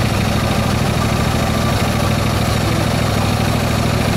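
Engine of a 7¼-inch gauge miniature Baldwin S-12 locomotive running at a steady, even pace, heard close up from the driving position.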